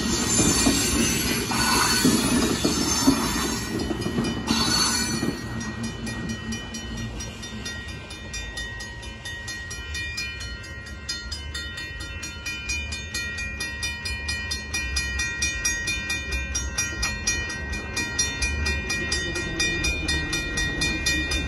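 Union Pacific freight train's hopper cars rolling past a grade crossing, wheels rumbling and squealing, for about the first five seconds. Then, as the train clears, the crossing bell dings steadily at about four strokes a second.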